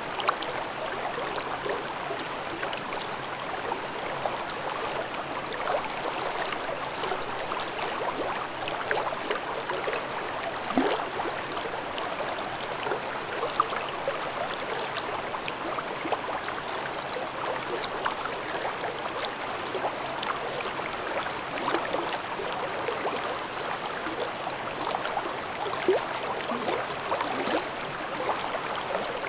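A babbling mountain stream, water burbling and splashing over stones in a steady rush with many small quick splashes and gurgles.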